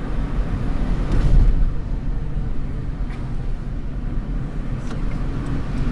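Road and engine noise inside a moving car: a steady low rumble that swells briefly about a second in.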